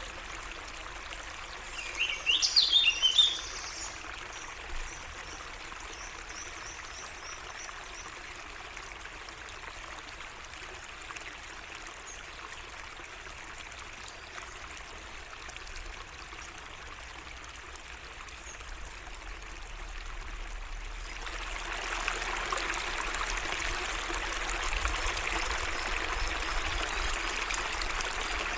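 A small waterway trickling and flowing steadily. A bird gives a loud, quick burst of chirps about two seconds in, then faint high twittering follows. The water grows louder about three-quarters of the way through.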